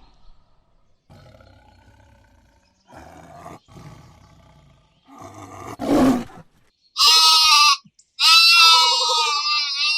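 Animal calls: a few low, rough calls and a short loud roar-like call, then from about seven seconds in, loud high-pitched calls that waver in pitch.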